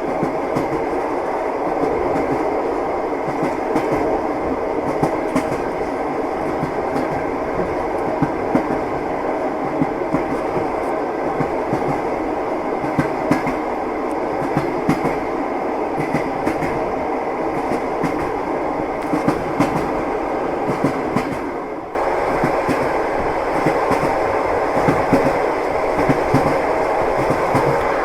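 Passenger train carriage rolling along the track, heard from inside: a steady rumble with the irregular clickety-clack of wheels over rail joints. About 22 seconds in it dips sharply for a moment, then runs on a little louder.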